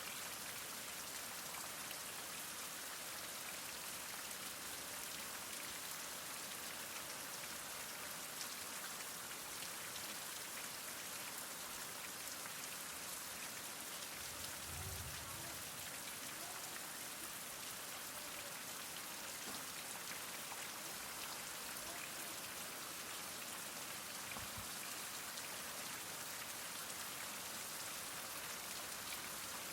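Heavy rain falling steadily, an even hiss of countless drops, with a brief low rumble about halfway through.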